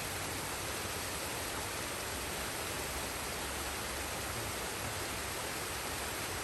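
Forest waterfall and stream rushing, a steady even roar of falling water.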